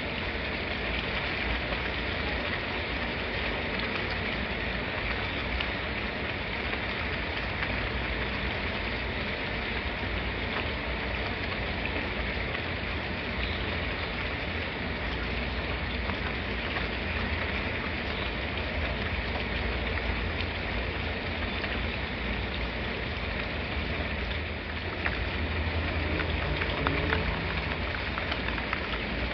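Steady rain falling, with many small drops ticking through the even hiss; it grows a little louder near the end.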